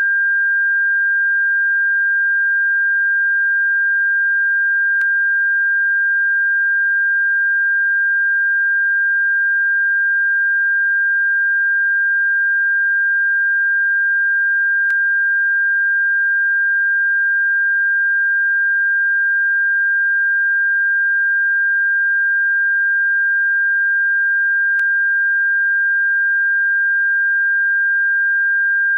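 A single steady, high-pitched electronic sine tone held at one pitch, played as a bird-repellent sound. Faint clicks break through about every ten seconds.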